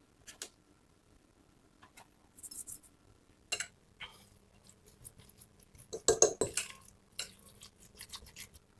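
Kitchen utensils clinking and knocking against dishes and bowls in a string of irregular taps, the loudest cluster about six seconds in.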